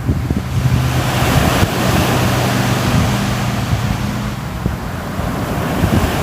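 Ocean surf: a wave washing in with a broad rush that swells about half a second in and slowly eases off toward the end.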